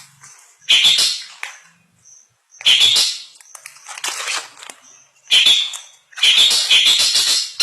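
Long-tailed shrike (cendet) singing in harsh, scratchy bursts, four phrases with short pauses between them. The last phrase is a long rapid chatter, typical of a cendet's song packed with mimicked calls of other birds.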